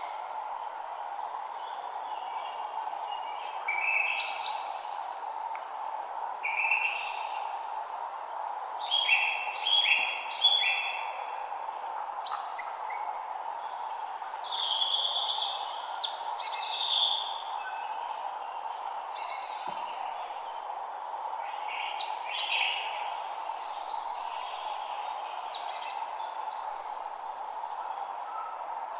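Several songbirds singing in a spring woodland: short chirps, trills and quick repeated notes overlapping throughout, over a steady hiss.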